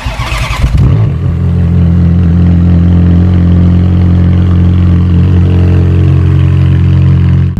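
Ferrari F430's V8 engine cranking and catching, then settling into a steady, loud cold-start idle through a muffler delete straight off the catalytic converters.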